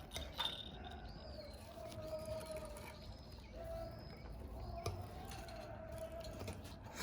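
Faint, soft bird calls: small high peeps repeating about once a second over a low wavering tone that comes and goes.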